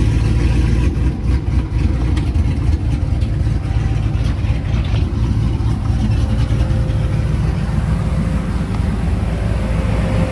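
Truck engine running steadily with a heavy low rumble.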